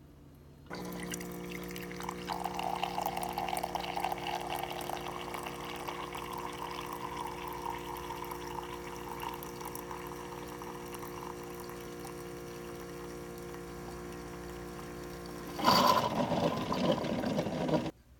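Water running steadily with a constant hum underneath, turning into a louder gush about two seconds before it cuts off abruptly near the end.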